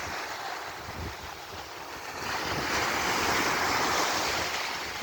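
Rough sea surf breaking on the beach, a wave swelling louder and washing in about halfway through, with wind buffeting the microphone.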